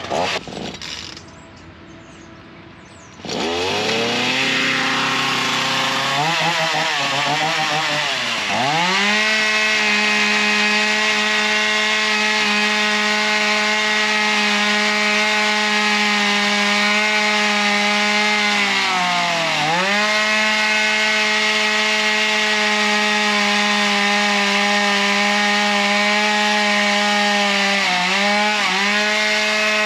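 Ryobi 37cc two-stroke gas chainsaw engine coming up to speed about three seconds in, its pitch climbing, then running steadily at high revs while cutting wood. The pitch dips briefly twice, once in the middle and again near the end.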